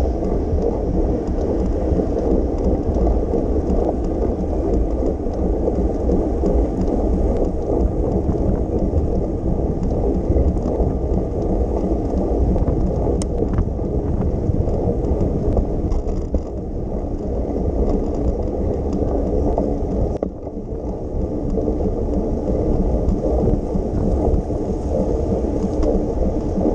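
Steady rumbling road noise from a bicycle ride on wet city streets, dipping briefly about twenty seconds in.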